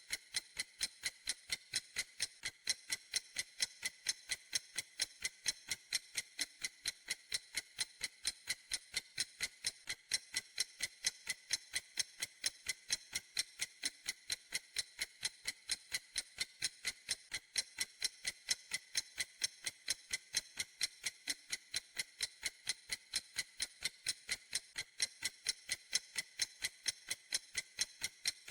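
Clock ticking steadily: sharp, high-pitched, evenly spaced ticks at about three a second, with no change in pace or loudness.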